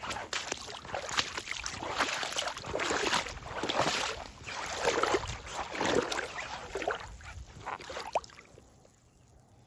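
Joules rubber boots squeaking: a quick irregular run of short rubbery squeaks and scuffs, stopping about a second before the end.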